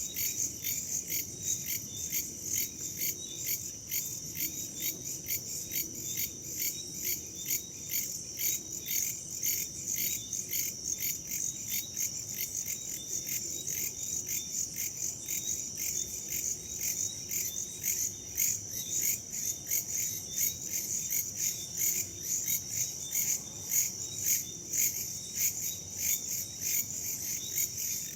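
A chorus of crickets and other insects chirping in rapid, steady pulses, high-pitched and continuous.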